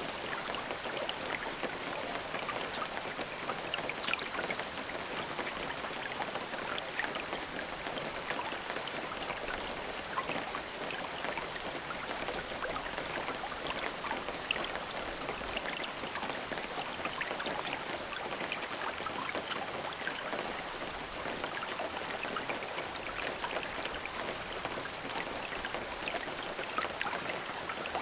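Steady rain falling, with many individual drops pattering on a surface over an even hiss of rainfall; no thunder.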